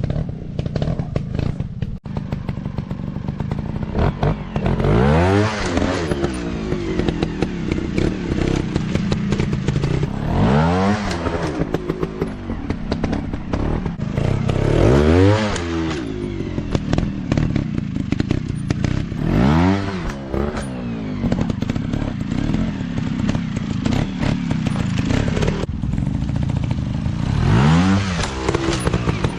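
150 cc dirt bike engines running on a trail, revving up and dropping back again and again, about five times over the stretch, with a constant engine drone beneath. Clattering knocks come through alongside.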